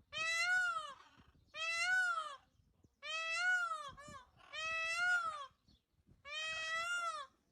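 Peacock calling: five loud, wailing calls, each about a second long and rising then falling in pitch, evenly spaced, with a short extra note between the third and fourth.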